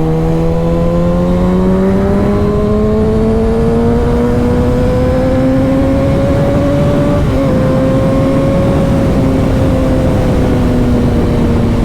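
Motorcycle engine under way, its pitch climbing steadily as it accelerates for about seven seconds. There is a brief break about seven seconds in, then the pitch holds and eases slightly, with wind rushing over the microphone throughout.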